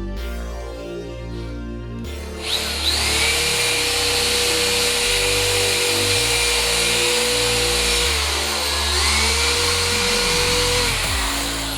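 Power tool cutting exhaust tubing. It spins up about two seconds in and runs with a steady whine and hiss, slows briefly and picks up again, then winds down near the end. Background music plays throughout.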